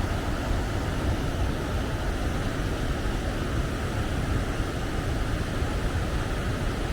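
Waterfall and river rapids rushing in a steady, unbroken roar of falling water.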